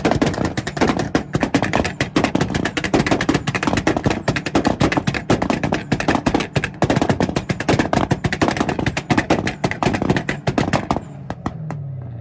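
A Volkswagen and a Nissan held on two-step launch-control rev limiters at the same time, their exhausts firing a rapid, continuous stream of pops and bangs over the limited engine drone. The popping cuts off suddenly about 11 seconds in as both let off.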